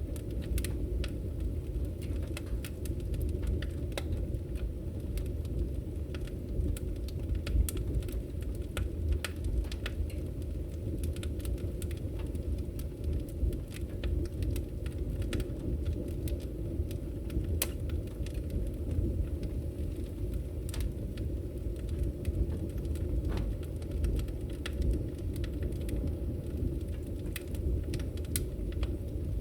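Wood fire burning, with a steady low rumble of flames and frequent irregular crackles and pops from the firewood.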